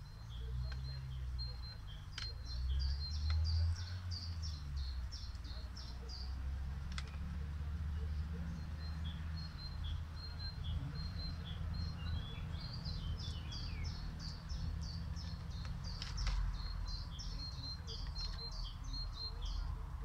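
Songbirds singing: quick runs of short, high chirps and trills in two long bouts, the first near the start and the second from about twelve seconds on, over a steady low rumble. A few faint clicks come through.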